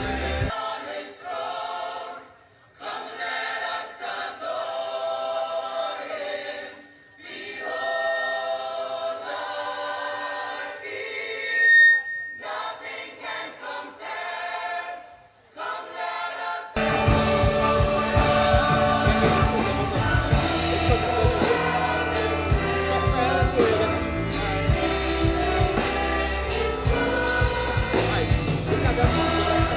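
Choir singing gospel-style music, in short clips cut one after another. About seventeen seconds in, it changes to a full band with bass and drums under the voices.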